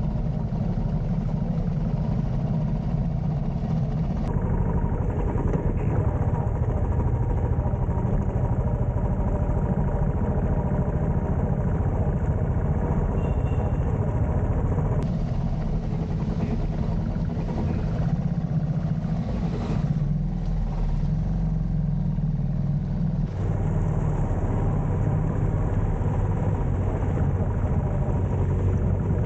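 Royal Enfield motorcycle engine running steadily under way, with road and wind noise, across several edited clips.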